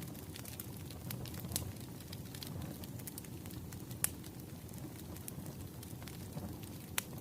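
Wood fire burning: a steady low rumble with scattered sharp crackles and pops from the firewood, the loudest about four seconds in and near the end.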